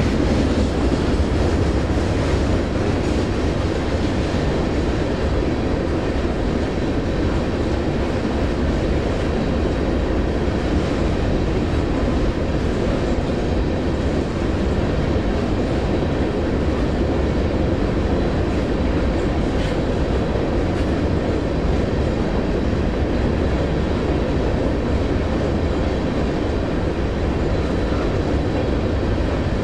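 A train passing at close range, a dense, steady sound that holds at one level without breaks.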